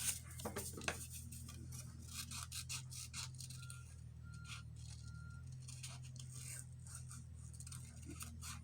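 Scissors snipping paper in a string of small cuts while fussy-cutting around a printed piece, over a steady low hum. Three short faint high tones sound around the middle.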